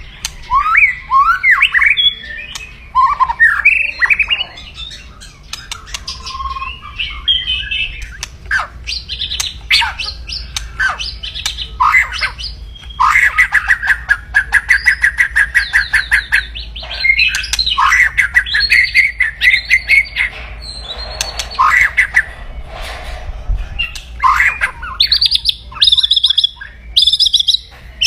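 White-rumped shama (murai batu) giving its aggressive 'kretekan' calls: rapid, harsh rattling trills mixed with quick sweeping notes. A long fast trill runs through the middle, and the notes turn higher and more clipped near the end.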